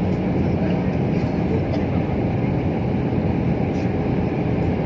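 Airliner cabin noise during landing: a steady rush of engine and airflow noise with a low hum underneath, heard from inside the passenger cabin.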